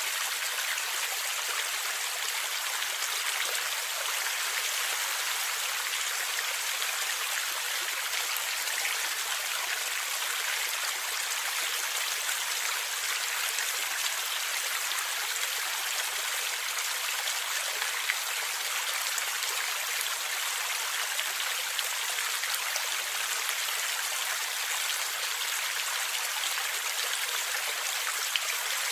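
A forest river or stream running over stones, a steady rush of water with faint gurgling and small splashes.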